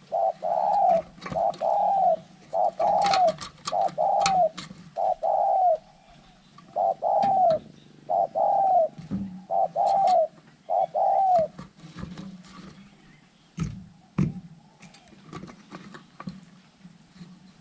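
Spotted dove cooing: a quick series of about ten short arched coos with one brief pause, stopping about two-thirds of the way through, in a contest between rival doves. Scattered faint clicks and knocks follow.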